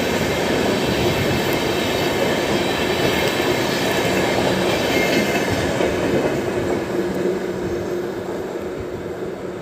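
An express train's passenger coaches rolling past on the rails, their wheels clattering, with a faint steady whine running through the noise. It fades over the last couple of seconds as the final coach draws away.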